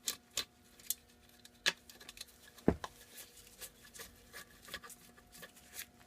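Hand tools and small metal parts clicking and clinking irregularly while the valve cover is taken off a Briggs & Stratton small engine, with one heavier knock about two and a half seconds in.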